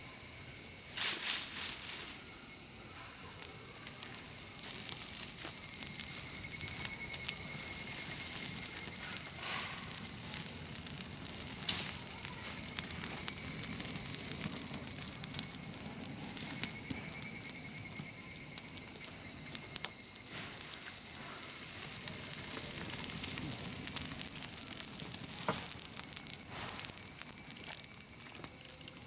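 A steady, high-pitched chorus of insects, with a campfire crackling and giving a few sharp pops.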